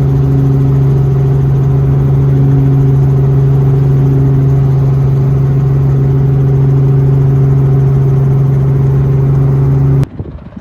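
Helicopter's engine and rotor running steadily: a loud, even drone with a strong low hum. It cuts off abruptly near the end, leaving a fainter, uneven noise.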